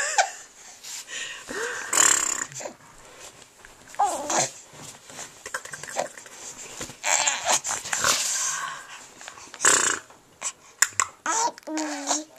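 A baby's wordless vocal noises: breathy, wheezy huffs and short squeals, a few with a brief rise and fall in pitch, coming in separate bursts with pauses between.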